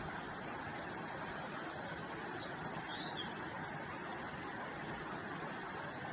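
Steady rush of a mountain stream, with a short phrase of high whistled notes from a blue-and-white flycatcher about two and a half seconds in.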